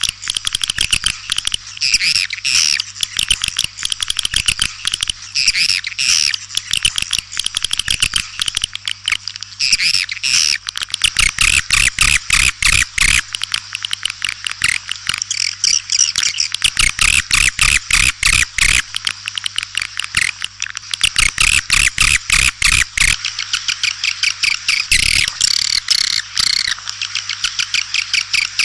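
Swiftlets twittering in a dense, continuous stream of rapid high chirps. Through the middle stretch it is mixed with runs of sharp clicks.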